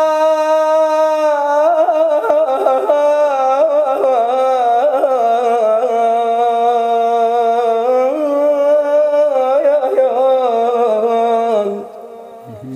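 Male munshid chanting unaccompanied in Iraqi style: a long held note, then a melismatic sung phrase with quick ornamented turns in pitch. The voice stops about a second before the end.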